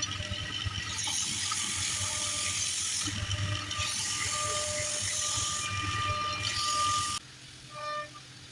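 A wood lathe runs with a steady hum, and a tool scrapes the spinning wood in two long, hissing passes, over background flute music. The sound drops off sharply about seven seconds in.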